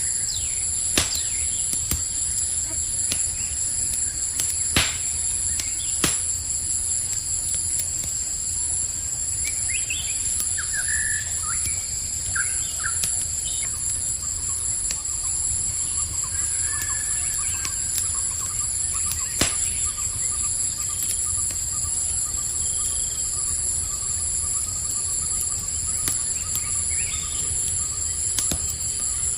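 Campfire crackling with occasional sharp pops over a steady, high-pitched night chorus of crickets. A few short bird chirps come about a third of the way through.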